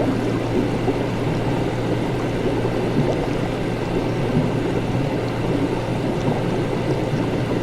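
Laboratory ambience: a steady low hum under a dense, even wash of noise, with no distinct events.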